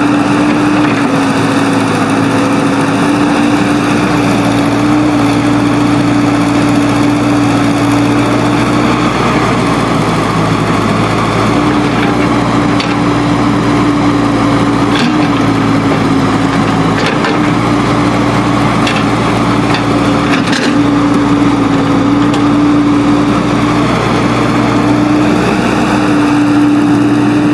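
Diesel engine of heavy earth-moving machinery running steadily under load, with a few short knocks in the middle.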